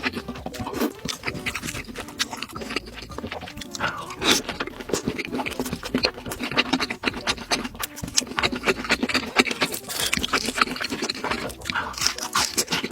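Close-miked chewing and wet mouth sounds of a person eating, a dense run of irregular smacks and crackles.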